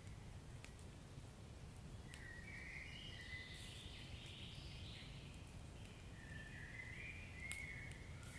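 Wood fire burning faintly: a low steady rumble of flames with a few sharp crackles and pops, and two stretches of a higher hiss, one about two seconds in and another near the end.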